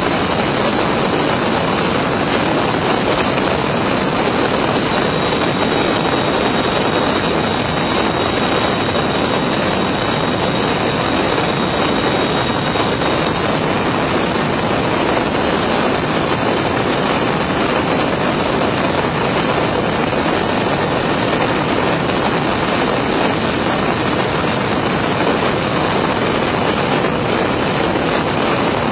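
Steady, loud rushing noise of an aircraft in motion, airflow and engine heard from a camera mounted on the landing gear, with a faint high whistle for several seconds in the first half.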